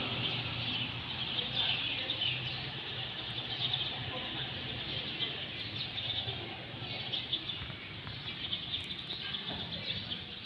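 Birds chirping continuously in a background chorus.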